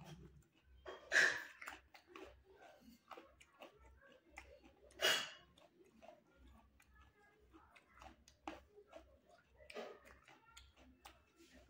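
A person chewing a mouthful of chicken and rice, close to a clip-on microphone: soft, irregular wet mouth clicks, with two louder, sharper sounds, about a second in and about five seconds in.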